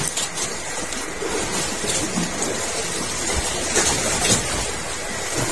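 Steady rain falling on the open sea, an even hiss with no distinct events.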